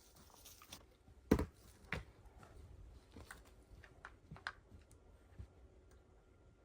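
A few irregular knocks and clicks of hard objects being handled, the loudest about a second and a half in and another soon after, then lighter ones.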